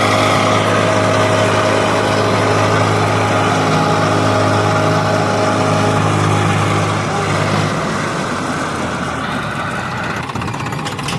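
Heavy diesel engine of a tractor or backhoe loader running steadily, then easing off about two-thirds of the way through and carrying on more quietly.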